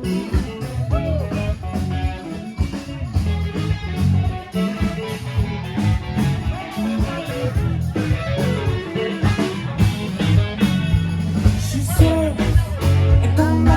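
A live rock band playing an instrumental passage: electric guitar over bass and drums.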